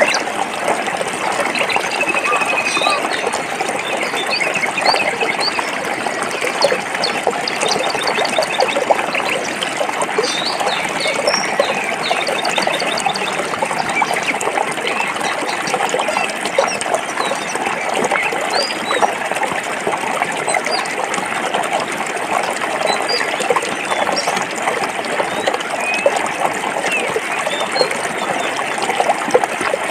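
Stream water flowing and splashing over rocks, a steady rushing sound, with small birds chirping in short calls above it.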